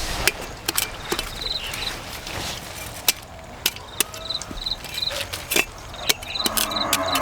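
Insects chirping in short repeated pulses, with irregular sharp knocks and clicks.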